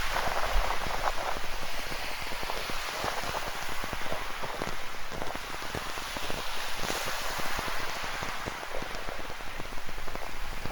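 Steady rain falling, with many drops ticking close by, over the wash of ocean waves.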